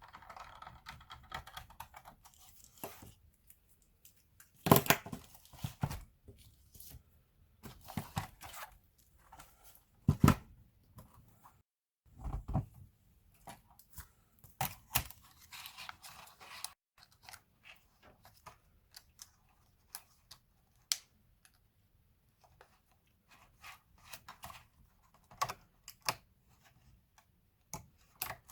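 Hands working on a laptop: irregular clicks, taps and knocks of plastic parts, with short scraping and rustling stretches. The sharpest knocks come about five and ten seconds in.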